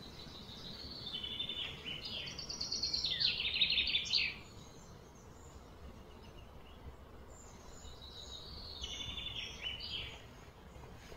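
Bird song: rapid high trilled phrases, a long one over the first four seconds and a shorter one near the end.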